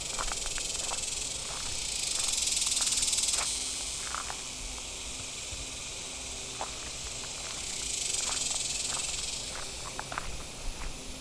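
High, shrill insect buzzing that swells up and fades away twice, with footsteps crunching on the trail underneath.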